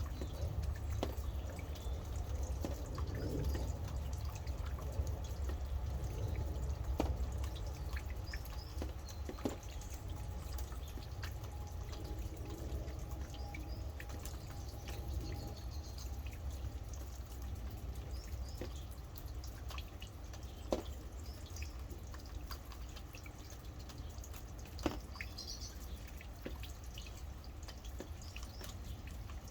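Rain dripping: scattered drops tick close by over a steady low rumble, and a bird chirps faintly a few times.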